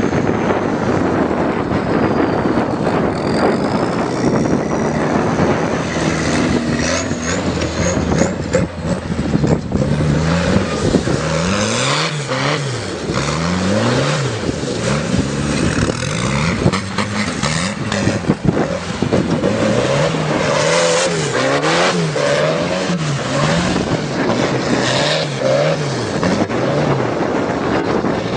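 Turbocharged tractor engine running loud under heavy noise at first, then from about halfway revved up and down again and again, roughly once a second.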